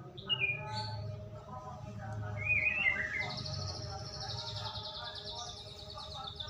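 White-rumped shama (murai batu) singing as a lure call to provoke other shamas into song. Short falling whistles open it, a loud warble comes about two and a half seconds in, and a fast, high, buzzy trill follows to the end.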